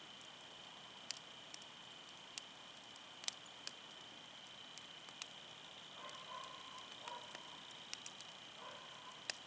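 Wood fire crackling quietly, with scattered sharp pops at irregular intervals over a steady faint high hiss. A faint tone comes in briefly twice in the second half.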